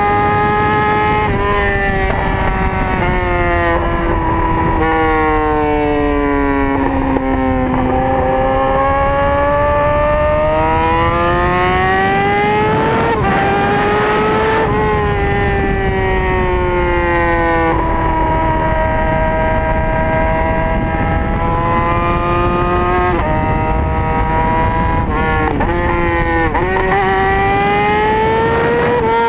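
2012 Yamaha R6's inline-four engine through a straight-pipe exhaust, heard onboard while riding, over steady wind rush. The engine note sinks and climbs slowly with the throttle and breaks off sharply in pitch several times at gear changes.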